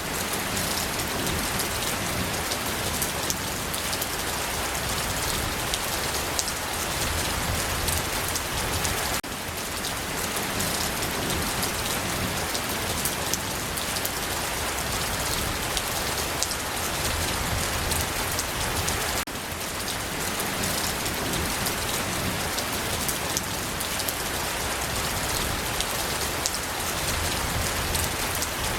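Steady rain falling, a dense even hiss of many fine drops pattering on a surface. The level dips briefly about every ten seconds.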